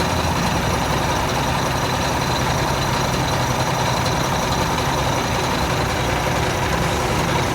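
Kenworth semi truck's diesel engine idling steadily.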